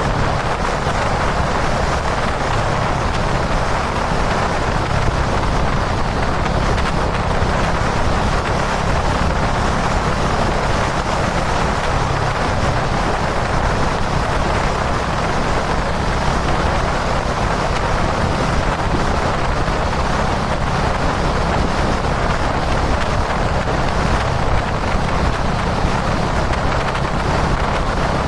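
Kawasaki Dominar 400 UG2's single-cylinder engine running steadily at highway cruising speed, with a constant rush of wind noise over the camera microphone.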